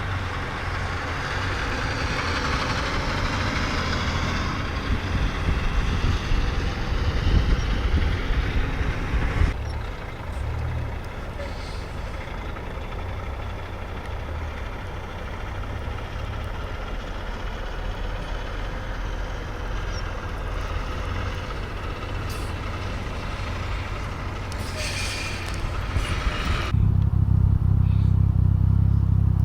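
A heavy truck engine running, with a steady low rumble and noise. The sound changes abruptly twice, and near the end a deeper engine rumble becomes clearly louder.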